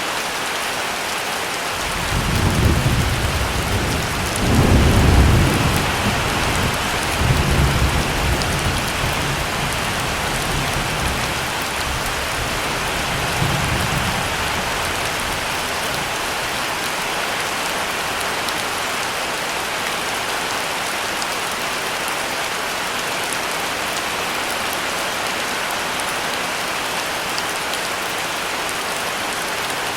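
Steady heavy rain with a roll of thunder: a deep rumble starts about two seconds in, swells twice, and fades away after about fourteen seconds while the rain goes on evenly.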